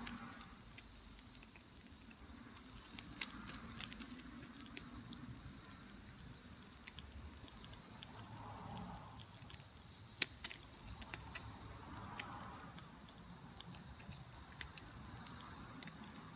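Crickets singing: one steady high trill, with scattered sharp crackles and clicks, the loudest about ten seconds in.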